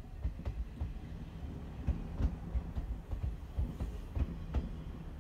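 Two-car KiHa 37 diesel railcar train passing close by: a low rumble with a quick, uneven series of knocks from the wheels on the track.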